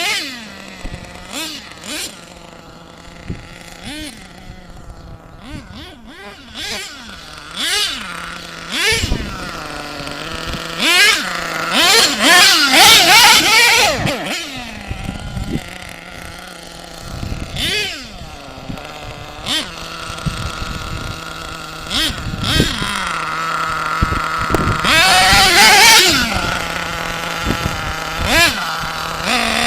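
SH .28 nitro engine of an HPI Savage X RC monster truck revving in repeated short blips that rise and fall in pitch, settling back to a steady idle between them. Two longer runs up to high revs come around the middle and near the end.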